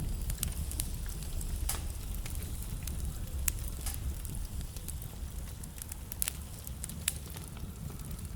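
Wood fire burning in a fireplace, crackling with irregular sharp pops and snaps over a steady low rumble; a louder pop comes about three and a half seconds in.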